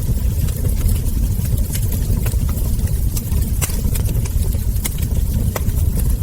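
Wood fire crackling, with frequent sharp, irregular pops from the burning logs over a steady low rumble of the flames.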